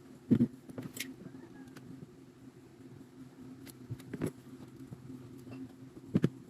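Small electric motor running with a steady low hum, with several sharp knocks and clicks over it, the loudest right at the start and another near the end.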